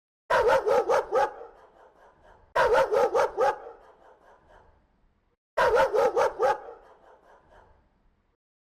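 Angry dog barking in three quick runs of about five barks each, a couple of seconds apart, each run trailing off in an echo.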